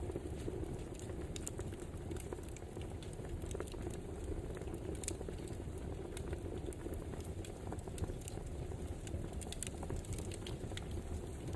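Wood fire crackling: a steady low rumble of burning logs with irregular sharp pops and snaps, one louder snap about eight seconds in.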